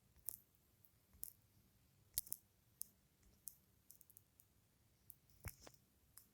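Near silence broken by a dozen or so faint, sharp clicks at irregular intervals, a few coming in quick pairs.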